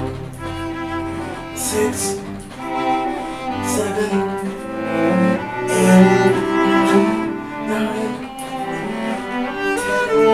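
Music of bowed strings, with cello and other string instruments playing held notes that change about once a second.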